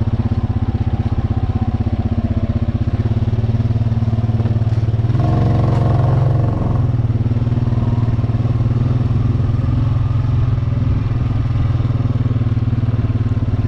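ATV engine running steadily while riding; about five seconds in it revs up briefly, then drops back to its steady drone.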